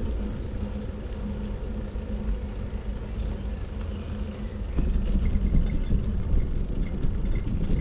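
Steady low rumble of wind and road noise on the microphone during a bicycle ride, with a steady low hum underneath. It grows louder about five seconds in.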